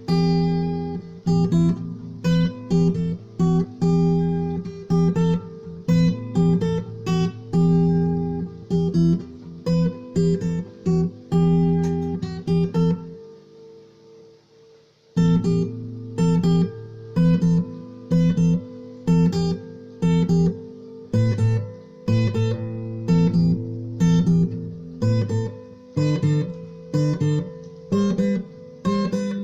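Acoustic guitar strummed in a steady rhythm, chords ringing out. About halfway through, the strumming stops and the chords fade away, then it starts again about two seconds later.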